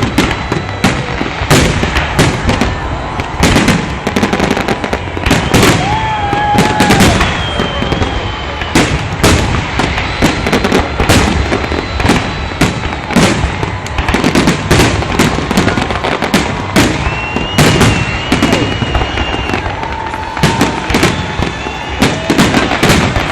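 Aerial fireworks salute: shells bursting in quick succession, several sharp bangs a second with crackling, going on without a break.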